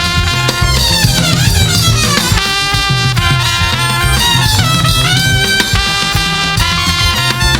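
Live gospel praise band playing, loud and steady.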